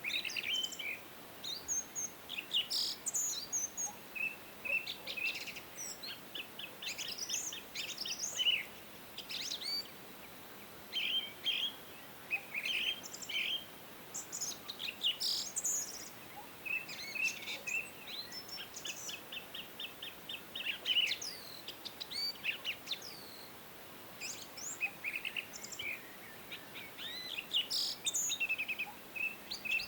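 Several songbirds singing and calling together: a busy run of overlapping chirps, short whistles and quick trills, over a faint steady hiss.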